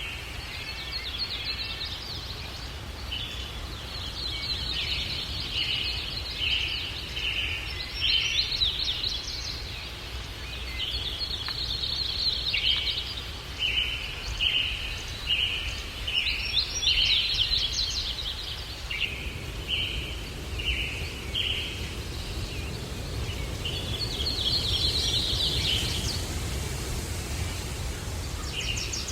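Songbirds singing in repeated phrases of quick high notes and trills, with short pauses between phrases, over a steady low rumble of wind.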